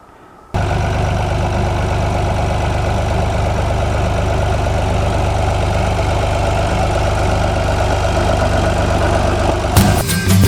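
Tractor engine running steadily at idle, starting abruptly about half a second in. Music comes in near the end.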